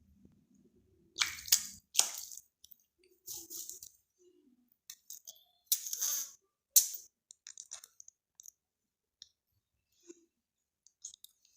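Green ringneck parrot bathing, splashing water in short irregular bursts with sharp clinking splashes and gaps between them.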